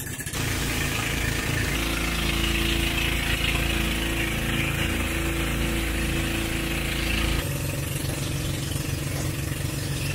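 Motorboat engine running steadily under a hiss of wind and water. Its note changes about two seconds in and again about seven seconds in.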